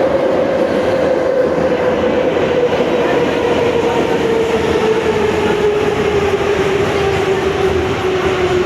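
Moscow metro retro train running on the track: a steady rumble of wheels on rail, with the traction motors' whine slowly falling in pitch throughout.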